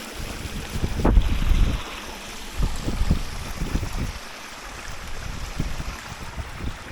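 Wind buffeting the microphone in irregular low gusts over a steady rushing hiss, strongest in the first few seconds and easing later.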